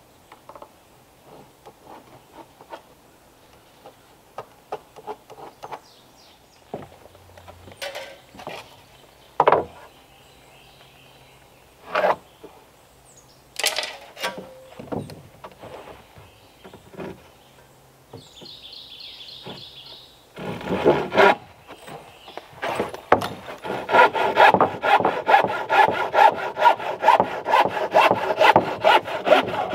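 Scattered knocks and scrapes of timber being handled, then, from about three-quarters of the way in, a hand saw cutting through wood in quick, even strokes, about three a second.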